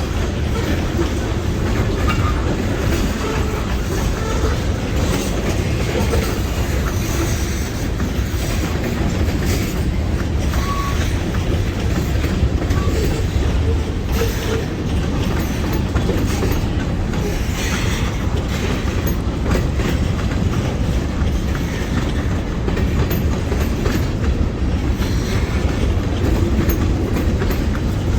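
Freight train rolling past at close range: a steady rumble of steel wheels on rail, with the repeated clickety-clack of wheels crossing rail joints.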